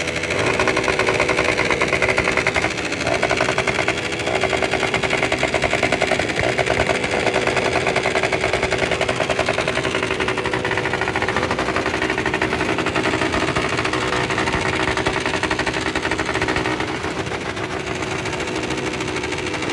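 Motorcycle engines running loud, with a fast, even exhaust beat and the revs rising and falling.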